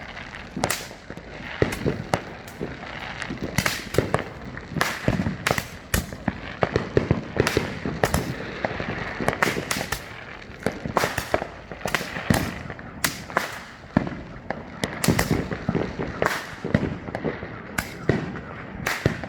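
Consumer fireworks going off in quick succession from several spots at once: a dense, irregular barrage of sharp bangs and crackles, several a second, with no let-up.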